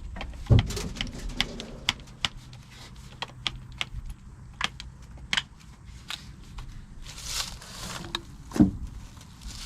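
A string of sharp clicks and taps, a few a second and unevenly spaced. A heavier knock comes about half a second in, and another near the end.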